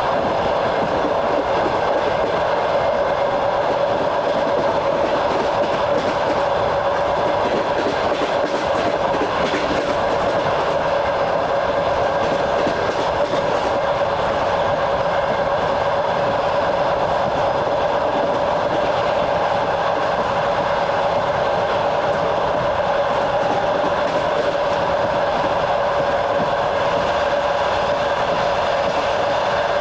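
Passenger train running steadily along the track: a constant rush of wheels on rail with a steady mid-pitched whine throughout.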